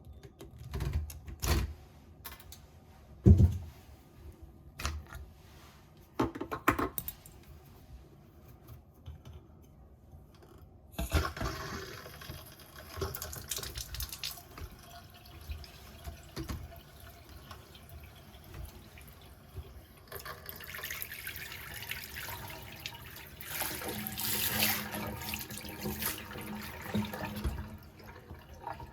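A few knocks and clicks, then from about eleven seconds in water runs from a washbasin faucet into the basin, louder in the last third.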